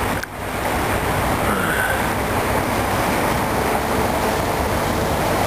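Steady rushing noise of wind buffeting the microphone and water moving along a boat underway, with a heavy low rumble.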